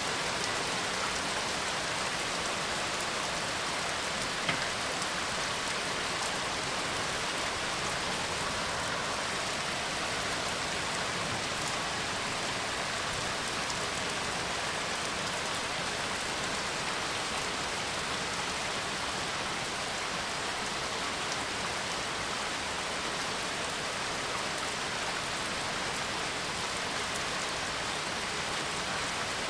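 Steady rain falling on a surface, an even hiss without a break, with one brief tap about four and a half seconds in.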